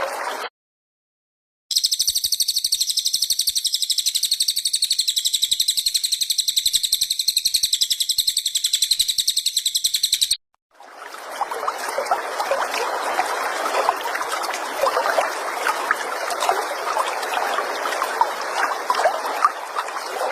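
Recorded songbird calls played as training audio. After a short gap, a very fast, high-pitched trill repeats steadily for about nine seconds. After another brief gap, it gives way to a dense, rushing chatter dotted with sharp chirps.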